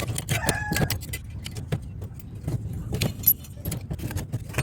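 Metal parts and a screwdriver clinking and knocking as a microwave oven magnetron is taken apart, with repeated short irregular clicks.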